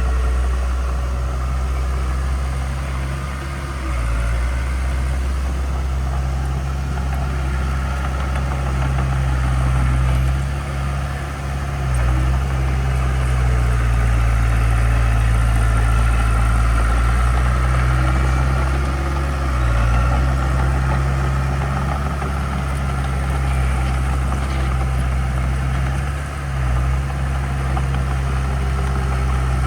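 Diesel engine of heavy earthmoving equipment running steadily, its note dipping briefly a few times as the load changes.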